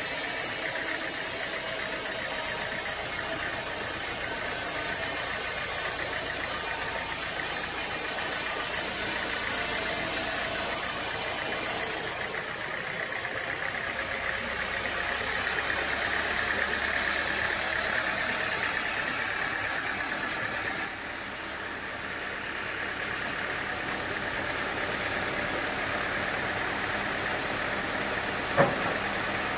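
Sawmill machinery running steadily with engine noise, its sound shifting abruptly twice, with one sharp click near the end.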